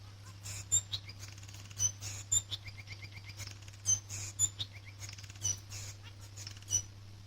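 Male society finch (Bengalese finch) singing: a string of short, sharp chirps and high notes with a quick run of repeated notes in the middle, over a steady low hum.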